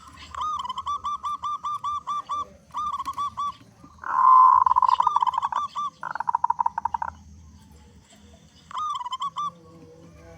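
Zebra dove (perkutut) calling in bursts of rapid, evenly repeated cooing notes, with a louder, rougher burst about four seconds in and a quick pulsing run a couple of seconds later.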